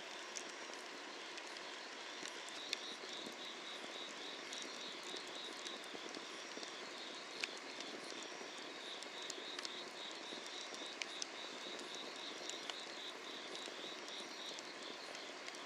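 Firewood burning under an iron cauldron, crackling with scattered sharp pops over a steady hiss. Field insects trill in a fast even pulse from about three seconds in.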